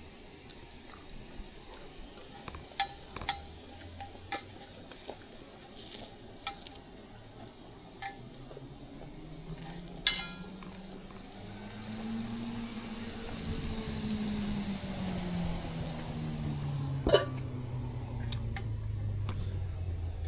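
Scattered sharp pops and crackles, then from about halfway a vehicle engine passing, its hum rising in pitch and then falling away as it gets louder.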